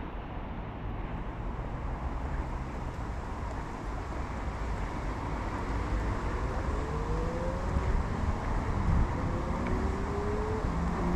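Road traffic passing steadily, with wind on the microphone; from about six seconds in, a vehicle's engine rises in pitch as it accelerates.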